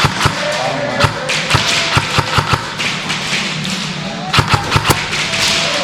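Airsoft guns firing in sharp snaps: single shots spaced a fraction of a second apart in the first couple of seconds, then a rapid burst of about six shots about four and a half seconds in.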